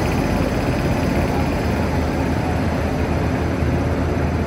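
Electric locomotive and passenger coaches of an Indian Railways express rolling slowly alongside the platform as the train pulls in: a steady, loud low rumble and hum.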